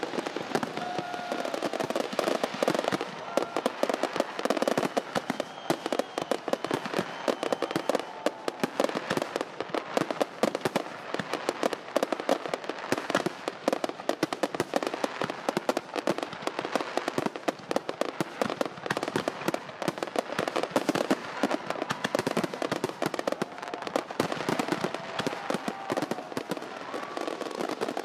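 Fireworks display: a dense, continuous crackling of many small pops and bangs.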